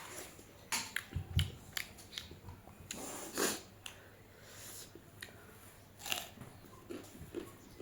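A person chewing and biting food close to the microphone: irregular wet mouth smacks and clicks, with a longer noisy burst a little before the middle.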